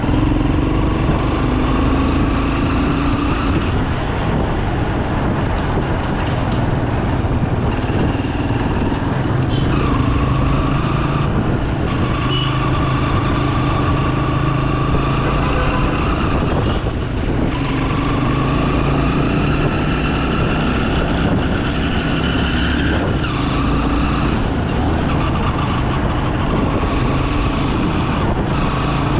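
Bajaj Pulsar 200 single-cylinder motorcycle engine running on the move. Its pitch climbs as it accelerates and drops sharply at each gear change, several times over. Steady road and wind noise runs underneath.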